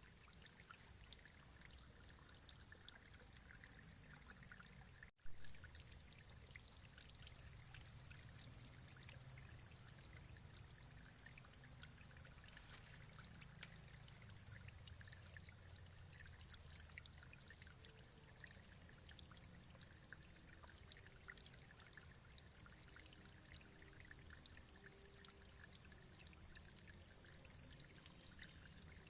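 Faint, steady running water, a trickling stream with many small splashes. About five seconds in the sound cuts out for a moment and comes back with a click.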